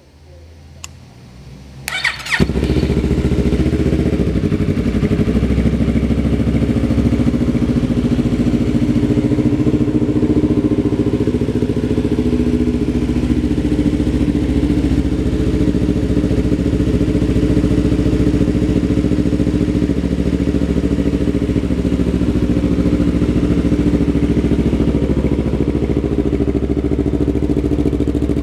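2015 Yamaha R3's parallel-twin engine being restarted: quiet with a single click about a second in, a brief starter whine, then the engine catches and idles steadily.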